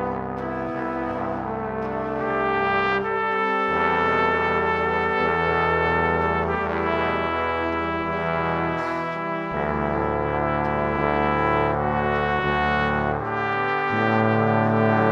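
Slow brass-ensemble music: trumpets and trombones hold soft, sustained chords that shift to a new chord every few seconds.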